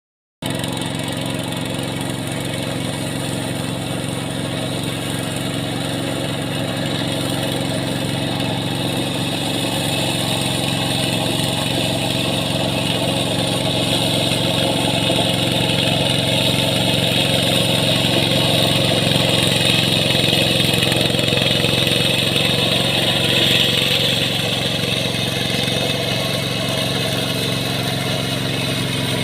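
Plowing tractor's engine running steadily as it works a wet rice paddy, rising a little in level through the middle.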